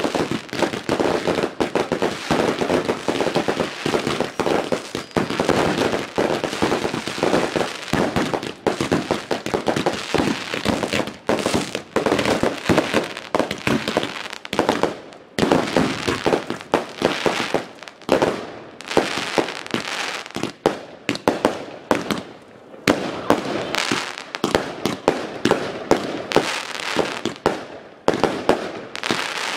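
A chain of linked fireworks going off, with ground fountains spraying sparks. The result is a dense, rapid crackle of cracks and pops over a rushing hiss, with a few brief lulls in the second half.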